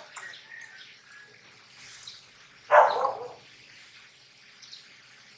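A dog barks once, loudly and briefly, about three seconds in.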